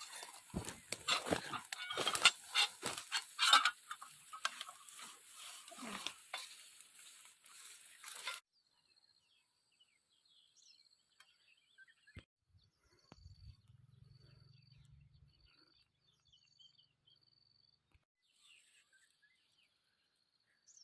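Leaves and branches rustling and crackling, with sharp snaps, for about eight seconds, then cutting off abruptly. After that it is nearly quiet apart from a faint, high, repeated chirp.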